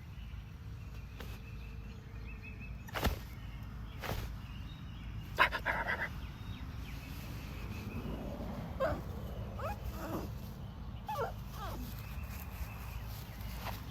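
A young puppy giving a few short, high cries that slide up and down in pitch, most of them in the second half, with a few sharp knocks earlier on.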